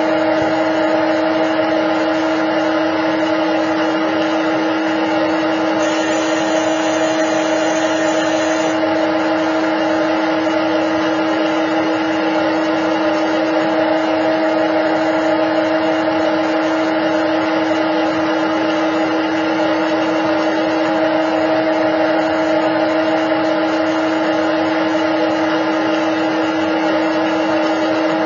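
Simulated CNC lathe running steadily: a constant machine hum with a steady pitched whine over a dense hiss, unchanging throughout.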